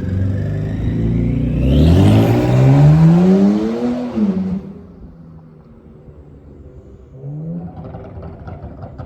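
Kia Stinger GT's twin-turbo V6 accelerating hard, its pitch climbing steadily for a couple of seconds to a loud peak before the throttle lifts and the sound falls away. A few seconds later there is a short second rev, followed by faint crackles.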